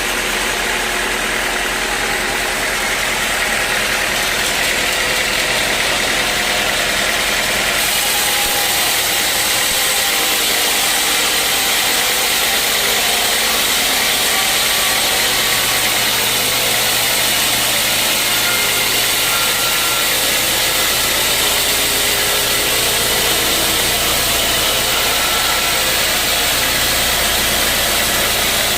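Sawmill machinery running steadily, a continuous mechanical hum under a high hiss; the hiss turns brighter about eight seconds in.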